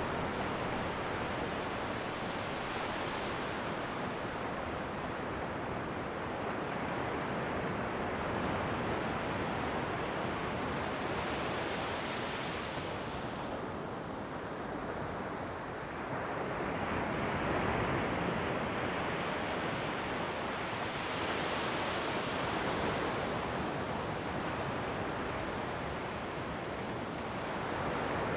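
Ocean waves breaking and washing on a shore, a continuous surf hiss that swells several times as waves come in, about every five seconds.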